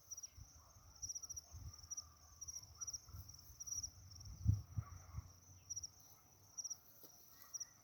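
Crickets chirping, short trills of four or five quick pulses repeating every half second to a second. Scattered low muffled thumps underneath, the loudest about four and a half seconds in.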